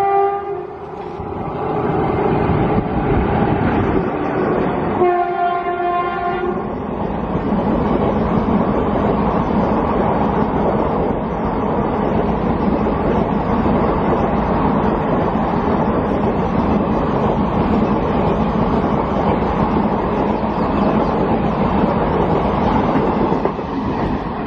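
Indian Railways train: a horn blast that stops about half a second in, a second horn blast of about a second and a half around five seconds in, then the train's steady running noise on the rails, easing slightly near the end.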